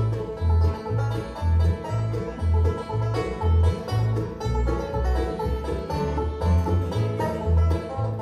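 Bluegrass band playing an instrumental break with no singing, string instruments over a steady bass line of about two notes a second.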